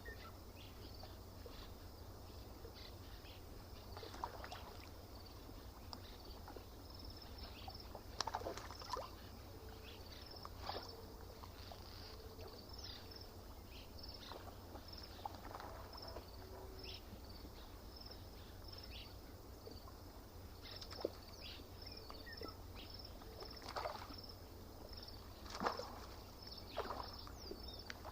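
Lake shore ambience: small waves lapping, with a short splash every few seconds over a steady low rumble. High chirps repeat at an even pace throughout.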